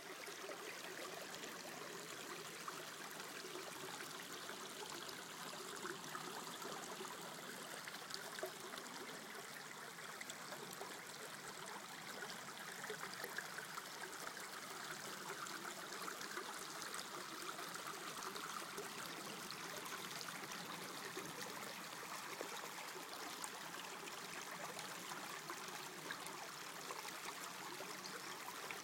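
Water flowing steadily.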